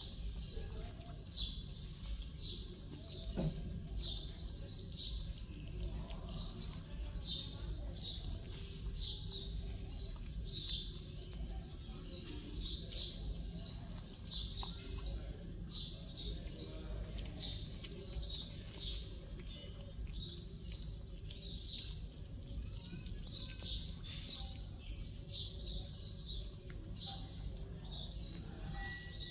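Small birds chirping rapidly and repeatedly, short high down-slurred notes several times a second, over a low steady background hum.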